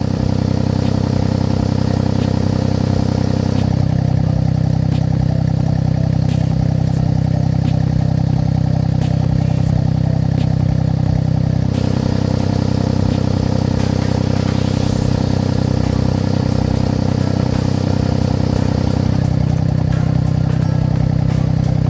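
Vehicle engine running steadily through a side-exit muffler fitted with an exhaust cutout valve, with its exhaust note shifting in tone three times.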